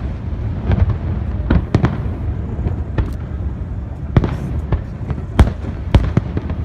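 Fireworks display: shells bursting in a rapid, irregular series of sharp bangs over a continuous low rumble, the two loudest bangs near the end.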